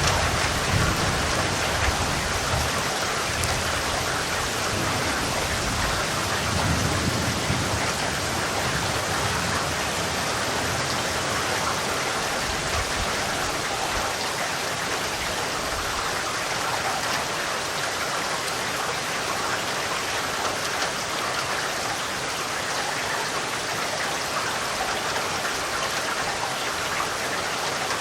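Steady, heavy rainfall, hissing evenly. A low thunder rumble runs under it for the first eight seconds or so, then dies away.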